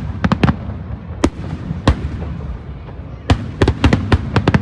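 Aerial firework shells bursting in a large display: sharp bangs, a quick cluster at the start, two single bangs in the middle and a rapid run of bangs near the end, over a steady low rumble.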